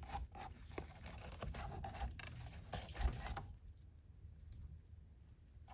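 Pleated paper oil-filter element being handled in a small glass jar of gasoline: scraping and rustling with many sharp clicks, stopping about three and a half seconds in.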